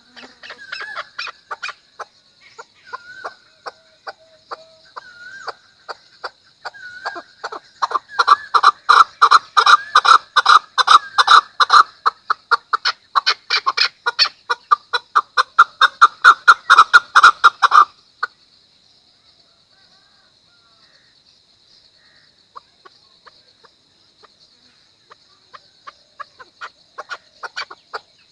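Chukar partridge calling: scattered clucking notes that speed up into a loud, rapid series of chuck calls, which stops abruptly about two-thirds of the way through. Faint notes start again near the end. A steady high-pitched whine runs underneath.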